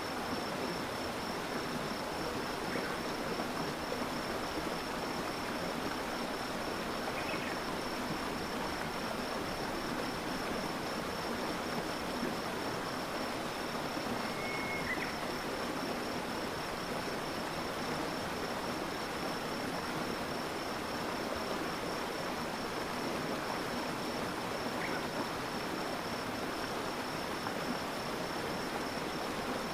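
A stream of water flowing steadily, with a continuous high trill throughout and a few short chirps about three, seven, fifteen and twenty-five seconds in.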